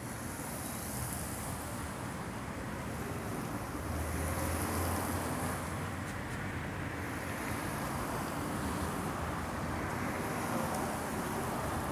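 Steady outdoor street noise from traffic, with a low swell a few seconds in like a vehicle passing. A high hiss swells and fades every few seconds.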